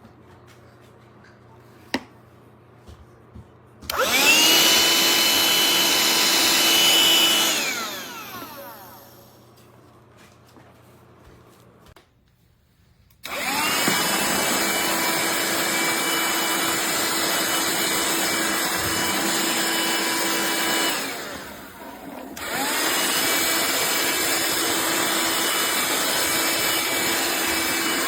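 Black+Decker Dustbuster cordless handheld vacuum switched on and off: a short run that winds down with a falling whine, then two longer runs with a brief break between them, the motor whining steadily at speed.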